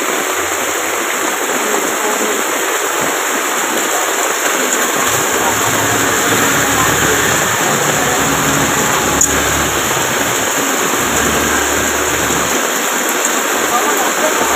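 Heavy tropical rain pouring down steadily onto pavement and standing floodwater, with runoff water rushing across the ground. A low rumble sits underneath for several seconds in the middle.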